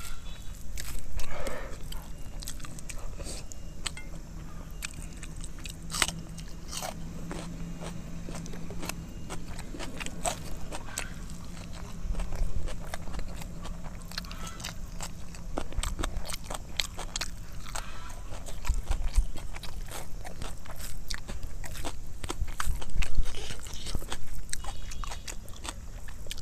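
Close-miked chewing and biting of rice and egg curry, with frequent short wet clicks and mouth smacks.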